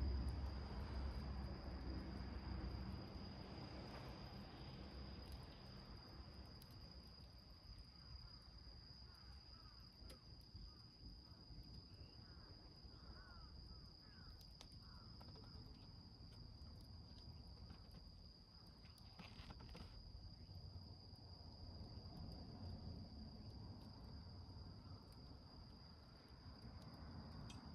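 Faint, steady, high-pitched insect trill, with a few soft crackles from a small wood fire burning in a metal can.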